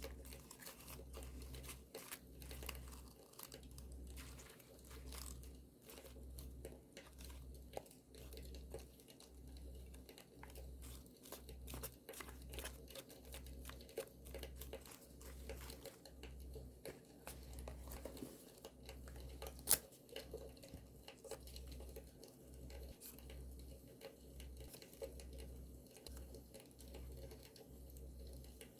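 Paper being handled, torn and crinkled, over the dense irregular crackle of a campfire, with one sharper pop about two-thirds of the way through.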